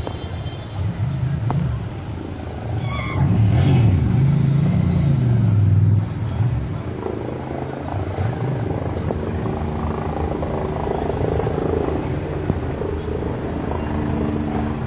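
Street traffic: motor vehicle engines running and passing, a low rumble that swells to its loudest for a few seconds in the first half.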